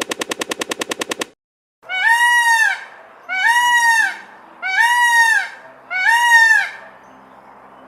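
A rapid rattle of evenly spaced clicks for just over a second, then four loud animal calls about a second apart, each just under a second long, rising then falling in pitch.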